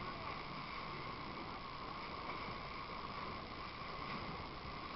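Steady running noise of a fishing boat on the water, with an unbroken high hum.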